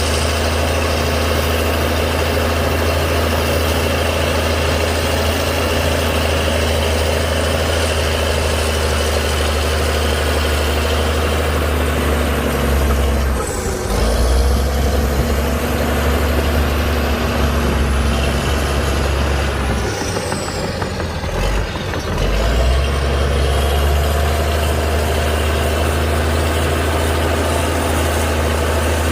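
Heavy diesel engine of earthmoving machinery running steadily with a deep hum. About 12 seconds in, the sound shifts for roughly ten seconds: the hum wavers and a high whine dips and rises twice before the steady running returns.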